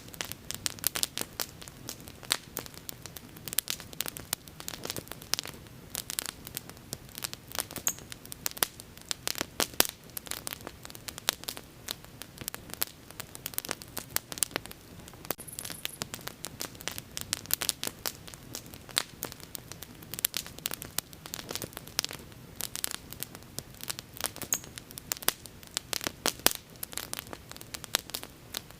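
Wood fire crackling, with dense, irregular sharp pops and snaps over a soft hiss.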